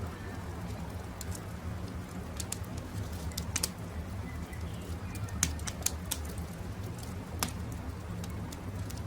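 Campfire crackling, with scattered sharp pops over a steady low rumble, while birds call in the background.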